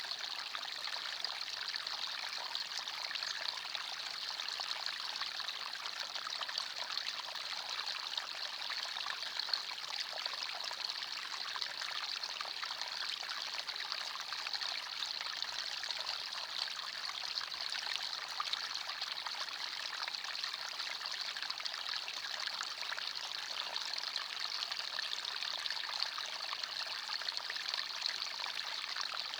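Small forest stream running and trickling over stones, a steady, even splashing that doesn't change.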